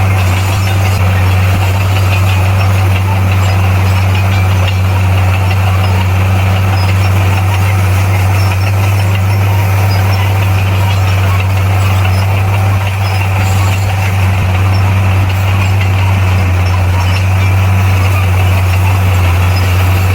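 Heavy earthmoving machine's diesel engine running steadily, a constant low hum that holds the same pitch throughout.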